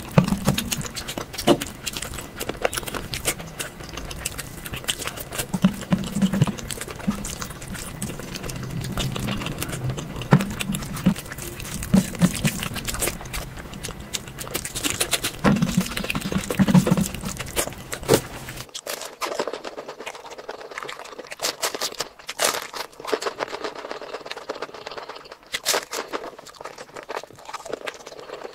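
Close-miked ASMR eating sounds: wet chewing, lip smacking and mouth clicks coming thick and irregular. About two-thirds of the way through the sound changes to a thinner recording with no low end, the clicking going on.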